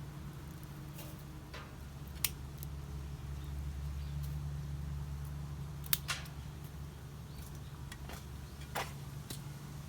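Wood fire burning in a homemade barbecue grill and fire pit: a steady low rumble with a few sharp crackles, about two seconds in, twice close together near the middle, and once near the end.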